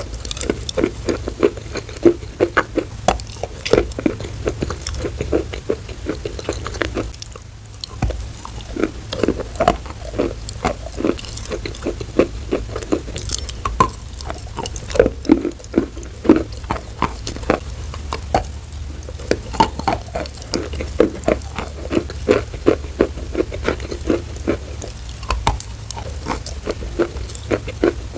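Close-miked ASMR trigger sounds: a continuous run of quick, irregular soft taps and crackles.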